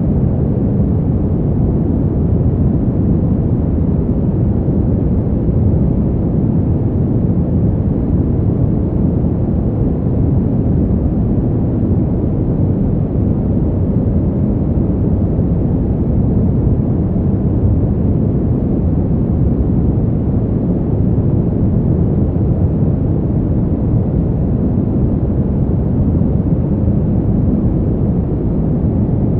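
Steady, low wind noise from a winter-wind sleep track: an even, dark rush with most of its weight in the bass and no gusts or changes.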